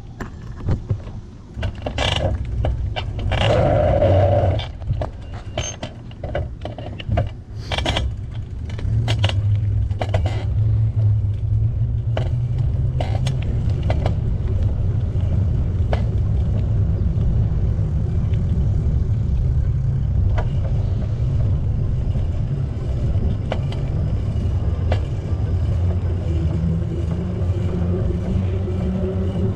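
Steady low rumble of wind and tyre noise on a bicycle-mounted camera while riding. The first several seconds hold a run of sharp knocks and clicks before the rumble settles in.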